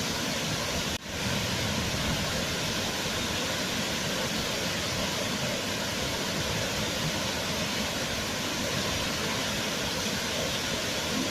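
Waterfall: a steady, even rush of falling water, with a brief dip in level about a second in.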